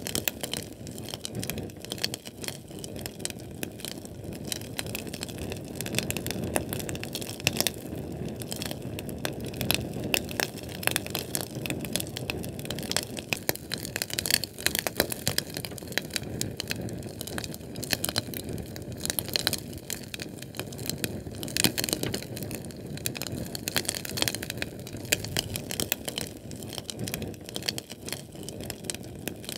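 Fire crackling steadily: a dense run of small pops and snaps over a low rushing of flame.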